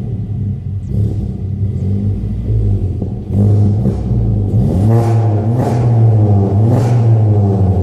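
Seat Ibiza 1.2 TSI's turbocharged four-cylinder engine with a full aftermarket exhaust, revving and accelerating in a tunnel. The exhaust note climbs in pitch about halfway through, with several short sharp cracks along the way.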